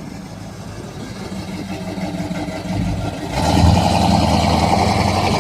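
A car's engine running as the car pulls away. It grows steadily louder, then gets suddenly louder and harsher about three seconds in as the car accelerates.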